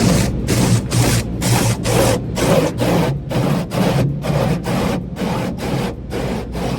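Automatic car wash heard from inside the car: a rhythmic swishing about three times a second over a steady low rumble of the machinery.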